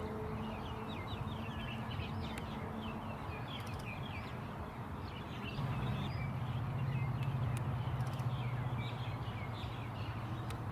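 A chorus of small birds chirping and twittering in quick, overlapping calls. About halfway through, a low steady hum comes in and grows louder under the birdsong.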